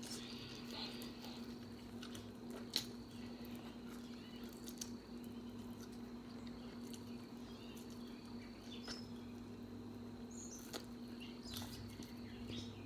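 Faint, scattered small clicks and smacks of someone eating a seafood boil, over a steady low hum.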